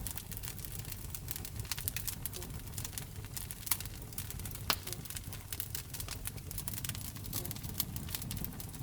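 Wood fire burning in a fireplace, crackling with frequent small pops over a low rumble of flames. A couple of sharper, louder pops come around the middle.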